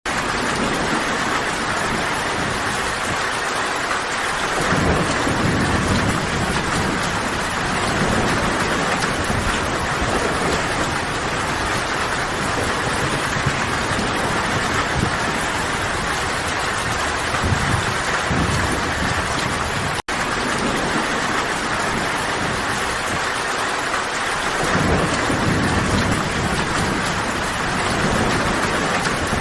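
Steady heavy rain, with low rolling rumbles of thunder about five seconds in and again near the end. The sound cuts out for an instant about twenty seconds in.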